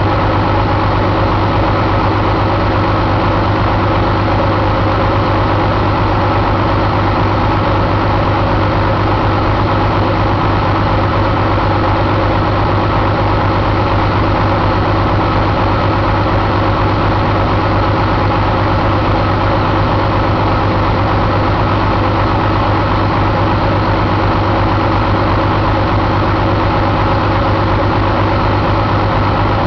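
Paccar MX13 inline-six diesel engine idling steadily, with no change in speed.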